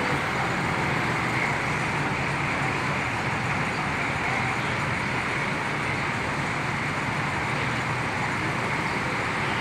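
Diesel engine of a Hino AK8 bus idling steadily, with the general noise of a busy bus terminal around it.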